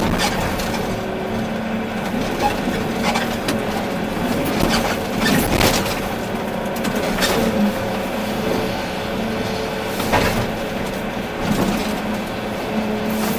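Volvo EC380D excavator running and working, a steady engine hum with scattered knocks and clanks every second or two.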